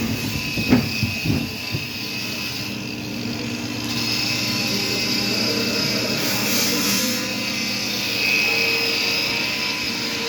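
Steady machine running with a constant hum of several fixed tones, with a few sharp knocks in the first second or two.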